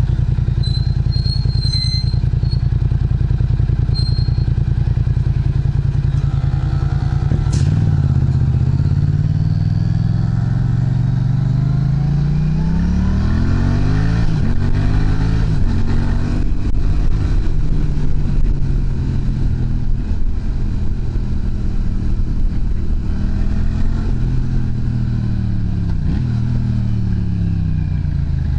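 Yamaha MT-07's 689 cc parallel-twin engine running through an aftermarket muffler. It runs steadily for the first several seconds, then the engine speed rises and falls several times.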